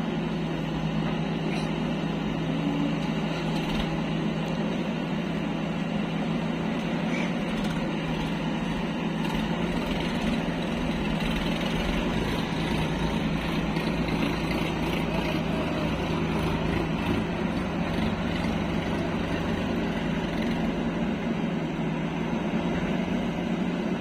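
Heavy diesel machinery engine running steadily, with a constant low hum.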